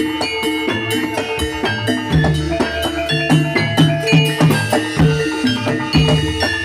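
Javanese gamelan music of the kind that accompanies a jathilan horse dance: a quick, steady rhythm of drums under repeated struck notes from metallophones.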